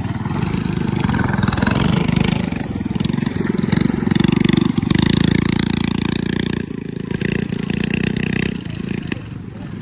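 Small mini bike engines running and revving, growing to their loudest about halfway through and fading away near the end.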